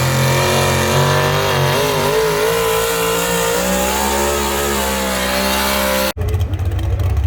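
Pulling tractor's engine running hard at high revs under load, its pitch wavering and sagging slightly partway through. About six seconds in, the sound cuts off abruptly to a rougher, lower engine rumble.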